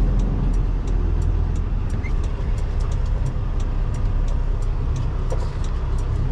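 Semi-truck diesel engine running with a steady low rumble, and a light ticking about three times a second over it.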